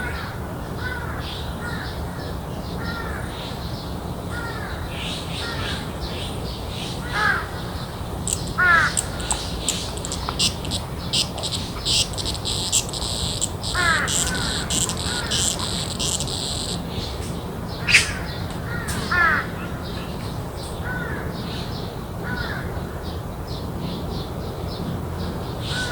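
Garden ambience: birds calling in short repeated calls about once a second, with a busier patch of sharp chattering calls and a steady high insect trill in the middle, over a steady low hum.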